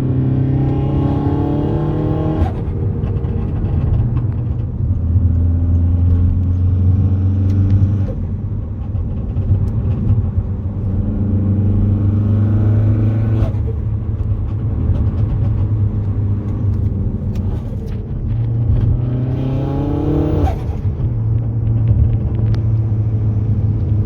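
Peugeot 308 GTi's turbocharged 1.6-litre four-cylinder accelerating, its pitch climbing and then falling sharply about three times as the throttle is lifted, with turbo flutter heard on the lift-offs.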